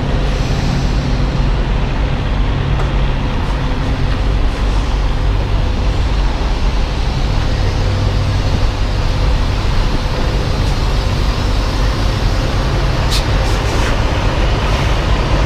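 Semi-truck's diesel engine running steadily as the tractor-trailer is slowly backed up, with a brief click about thirteen seconds in.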